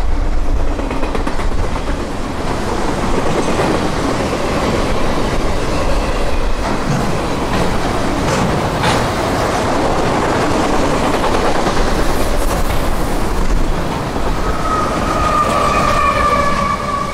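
CSX freight train's cars rolling past: a steady rumble and wheel clatter with a few sharp knocks. A steady high-pitched wheel squeal sets in near the end.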